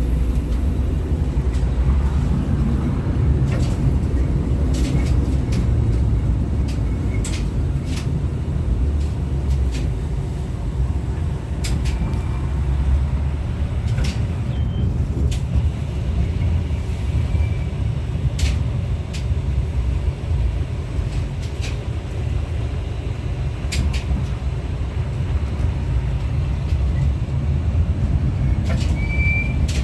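Interior of an LVS-86K articulated tram running along the rails: a steady low rumble with scattered clicks and knocks.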